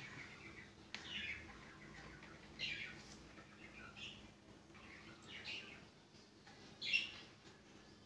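Faint chirps of small birds, about five short calls spread through, with a small click about a second in.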